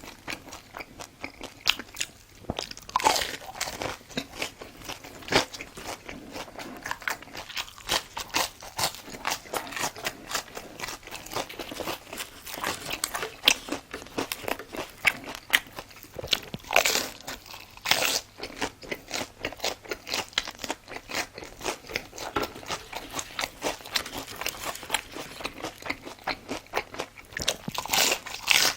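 A person biting and chewing crunchy food: dense, irregular crunching with a few louder bites, about 3, 17, 18 and 28 seconds in.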